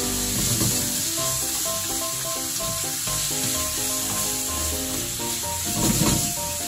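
Chicken pieces sizzling as they fry in oil in a pan, a steady hiss under a background music track of short melodic notes. A spatula scrapes and turns the chicken near the end.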